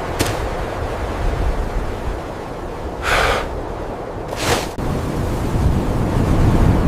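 Strong wind blowing in a snowstorm, a steady deep rush. A short brighter gust or scrape comes about three seconds in, and a brief sharp sound follows about a second later.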